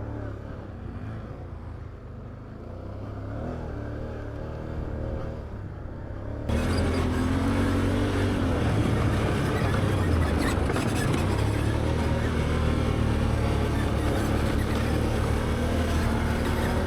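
Can-Am Outlander 850XT ATV's V-twin engine running steadily while riding a trail. About six seconds in the sound turns suddenly louder and hissier, and stays that way.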